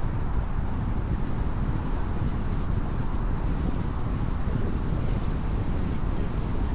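Steady driving noise of a car at expressway speed on rain-wet pavement: a constant low rumble with the hiss of tyres on the wet road and wind.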